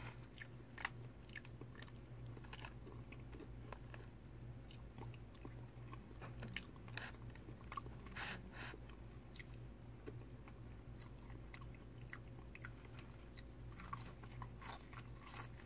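A person chewing crispy fried catfish, with scattered crunches of the fried coating and a fresh crunchy bite near the end.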